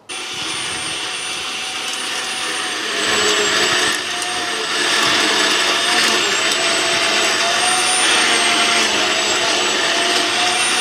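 Greenworks 8-amp corded electric cultivator switching on and running with a steady whine whose pitch wavers slightly; it gets louder about three seconds in.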